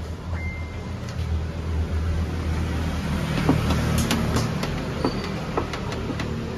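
1996 Honda Civic engine idling with a steady low hum. From about halfway in there are a few light clicks and taps.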